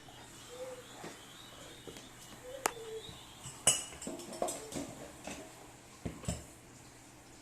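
A dove or pigeon cooing softly a couple of times in the first few seconds, then a run of sharp clicks and knocks of small hard objects being handled, the loudest about halfway through.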